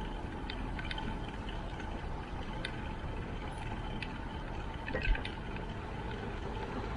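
Steady wind rumble on the microphone while riding a bicycle, with scattered light ticks and rattles and a single knock about five seconds in.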